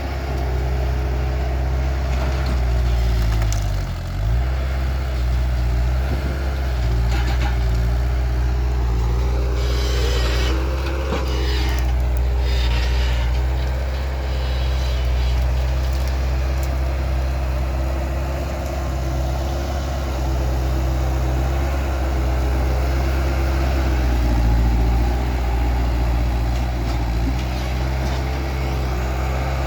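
Skid steer's diesel engine running steadily, dipping briefly in pitch about four seconds in, with a louder stretch and a whine that rises and falls about ten seconds in.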